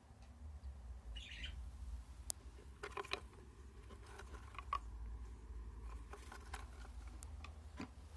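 Lovebirds chirping faintly, with a short burst of chirps about a second in, among scattered sharp clicks and knocks over a low rumble.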